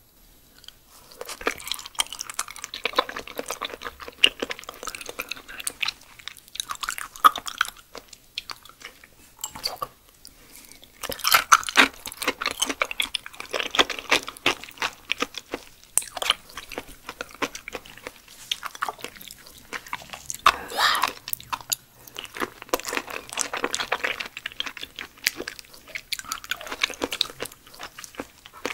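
Close-miked chewing of raw yellow stingray liver: a rapid patter of small mouth clicks, coming in bouts with short lulls between them.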